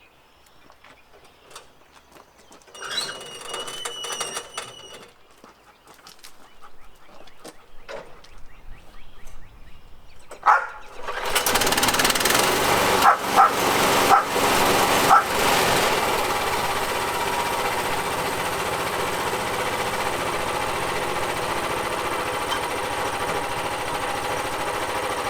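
Portable bandsaw mill's engine starting about 11 seconds in and then running steadily, with a few sharp clicks soon after it starts. Before that it is mostly quiet, apart from a short high-pitched whine about 3 to 5 seconds in.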